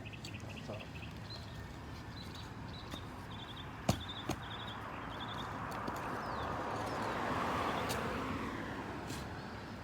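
A passing car: tyre and engine noise swells from about five seconds in, peaks, and fades away. Short high chirps from a bird sound in the first half, and two sharp knocks come about four seconds in.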